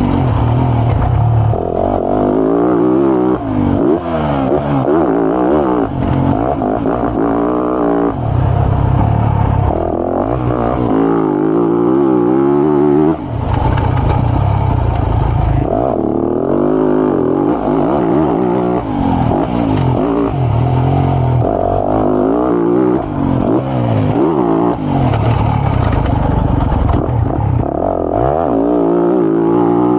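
Motocross bike engine heard on board, revved hard and let off again and again. Its pitch climbs repeatedly and drops back as the rider works the throttle and gears around the track.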